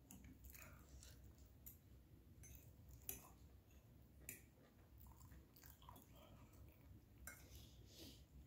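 Faint close-up chewing of soft food (salmon and mashed potato), with scattered sharp clicks of a fork against the plate.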